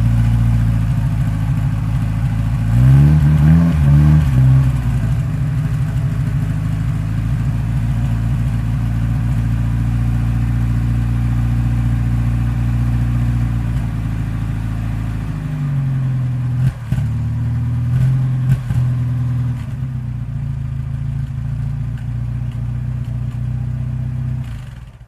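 Moskvitch 407's four-cylinder petrol engine running steadily at idle while it warms up after a winter cold start. It is revved briefly about three seconds in and then settles back; a few clicks come partway through, and the engine sound cuts off suddenly near the end.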